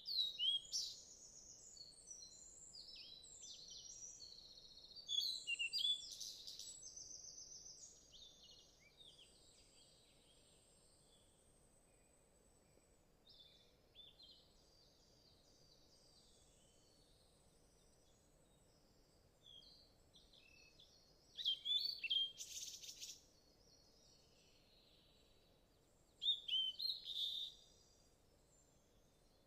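Birds calling: bursts of quick, high chirps and whistles, loudest at the very start, around 5 seconds in, and twice in the last third, over a faint steady background hum.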